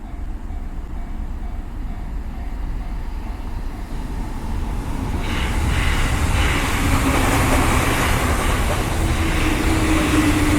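A train passing close by: a rushing rail noise builds from about halfway and grows louder, with a steady hum joining in over the last few seconds. Beneath it runs a constant low wind rumble on the microphone.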